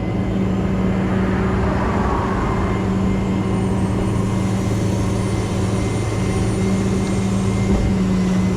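Rollback tow truck running its hydraulics to roll the flatbed back up: a steady low hum from the engine and pump over a noisy wash, unchanging throughout.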